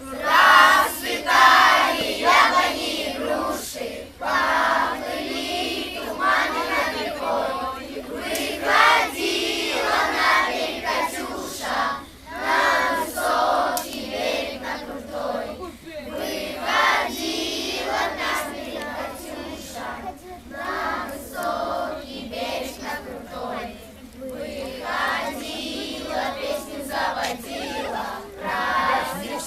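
A group of children singing together in chorus, many voices overlapping.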